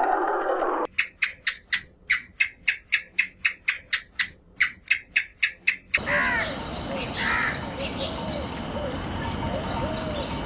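A bird giving a long, rapid series of harsh calls, about four a second. About six seconds in, it cuts to a steady hiss with faint chirps.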